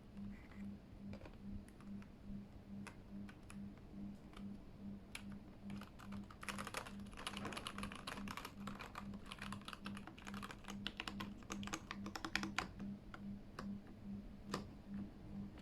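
Keystrokes on a Keychron K8 mechanical keyboard: scattered single clicks, then a fast run of typing through the middle for about six seconds, then scattered clicks again. A low hum pulses about three times a second underneath.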